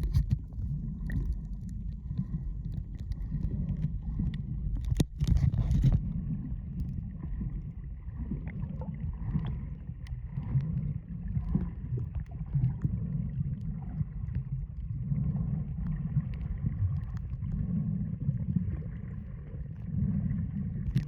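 Muffled underwater rumble of moving water picked up by a submerged camera while snorkeling, dull and low with the highs cut off. A few clicks and a sharp knock come in the first six seconds.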